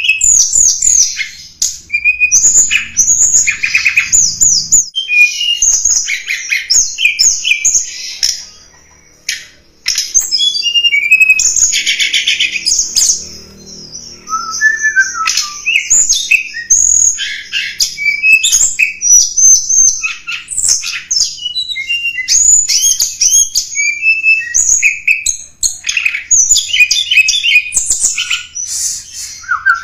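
Song of the tledekan gunung, a fast, almost unbroken run of high twittering chirps and short sliding whistled notes with only brief pauses. It is played as a lure call to draw wild tledekan or to tutor caged birds.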